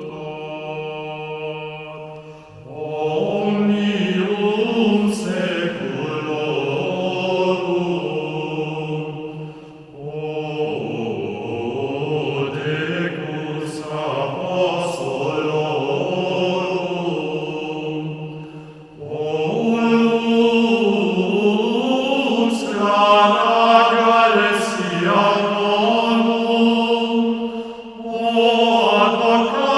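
Slow, chant-like vocal music with long held notes. It comes in long phrases that break off briefly about every eight to nine seconds.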